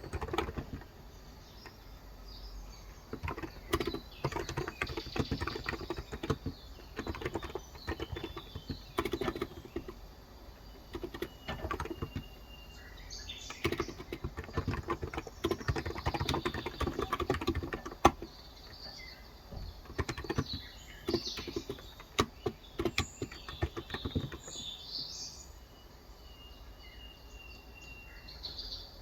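Fast typing in bursts with short pauses on a Cox Endeavor electrostatic capacitive tenkeyless keyboard with 35 g switches. Birds chirp in the background, with a thin whistled note twice, and more chirping near the end once the typing stops.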